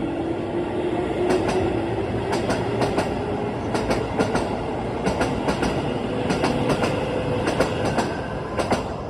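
Keisei 3800-series electric train running, its wheels clicking over the rail joints in pairs, with a steady whine under the rumble.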